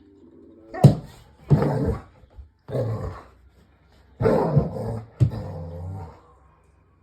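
Border collie barking and growling in five bursts, each with a sharp start that trails off into a rumble.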